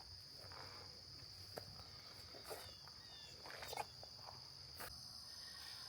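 Faint, steady, high-pitched chorus of singing insects, with a few soft clicks and a handful of short falling chirps around the middle.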